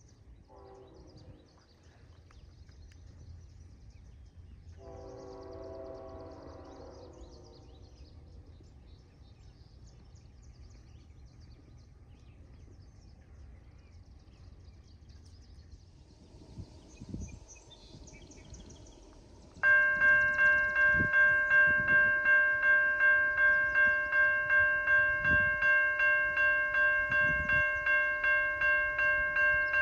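Railway level-crossing warning bell that starts suddenly about two-thirds of the way in and rings steadily at about two strikes a second, signalling an approaching train.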